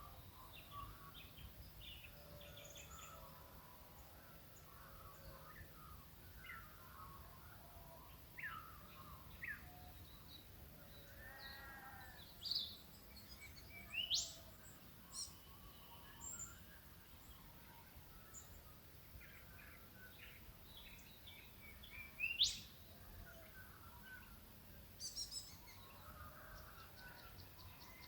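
Wild birds calling in the Australian bush: scattered chirps and short calls, with a few sharp upward-sweeping whistles, the loudest about three-quarters of the way in. A faint steady low rumble runs underneath.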